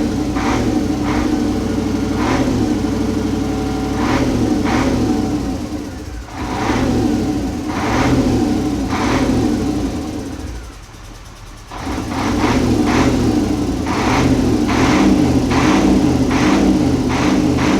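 KAMAZ truck diesel engine running on test while being run in after assembly, a steady heavy running note with short sharp accents repeating through it. The sound drops briefly about six seconds in and more deeply for about two seconds near ten seconds in, then comes back to full level.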